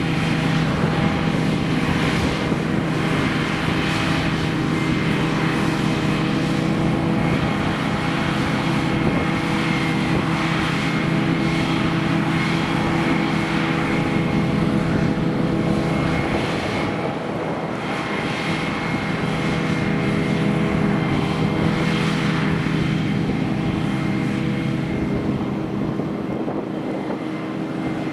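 Heavy farm machine's diesel engine running steadily with a constant drone, easing slightly about two-thirds of the way through.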